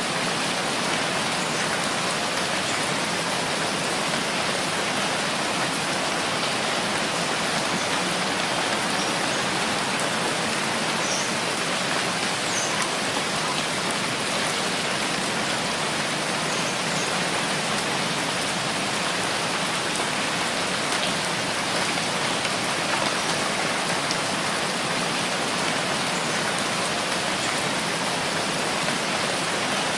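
Steady rainfall, an even hiss of rain falling on surfaces that holds constant throughout.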